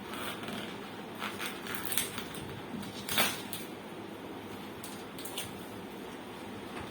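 A few short, sharp clicks and knocks over a steady background hiss, the loudest about three seconds in.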